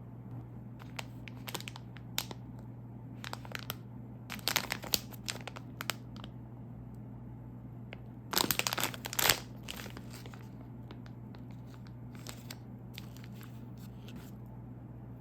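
Plastic snack packaging crinkling and rustling as it is handled, in irregular short spells, the loudest a little past halfway, over a steady low hum.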